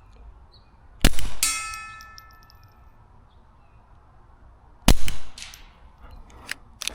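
Two suppressed shots from a Taurus TX22 .22 LR pistol, about four seconds apart. A fraction of a second after the first, a steel target plate rings with a clear metallic tone that fades over a second or so, a hit; the second shot draws no ring, a miss.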